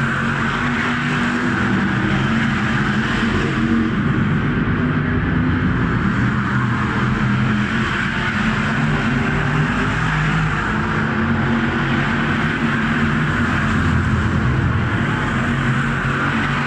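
V8 stock car engines running hard around an oval, a steady, wavering engine note with no let-up.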